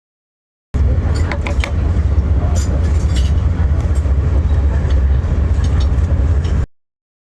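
Passenger train running, heard from inside the car: a loud, steady low rumble with scattered clicks and knocks. It starts abruptly under a second in and cuts off just as abruptly near the end.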